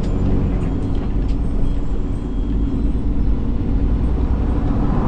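Motor vehicle running: a loud, steady low rumble of engine and road noise.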